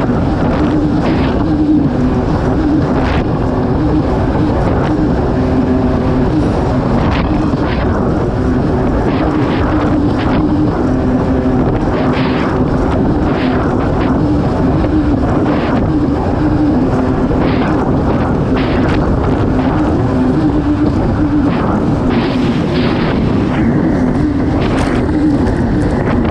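Kawasaki STX-160 jet ski's four-stroke engine running hard and fairly steady at racing speed, with wind on the microphone and repeated short splashes of water.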